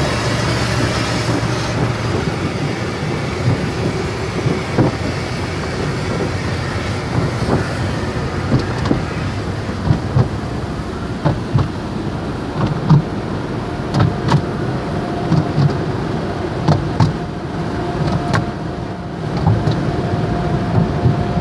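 Inside a car riding through a conveyor tunnel car wash: a hiss of spray for the first couple of seconds, then a run of irregular knocks and slaps as the wash's cloth brushes work over the car's body, over a steady machinery hum.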